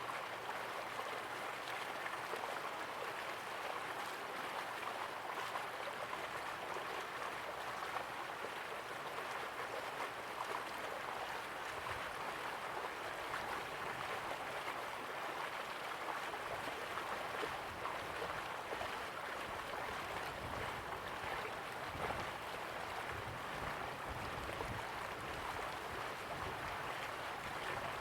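River water flowing slowly, a steady rush with fine gurgling.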